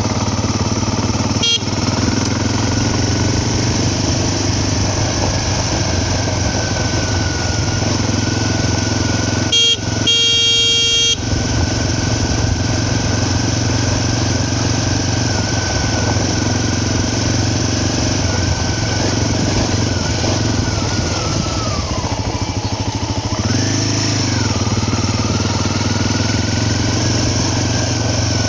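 Motorcycle engine running steadily under way, its pitch shifting with speed, dipping and then rising again near the end. A horn sounds once for about a second and a half, about ten seconds in.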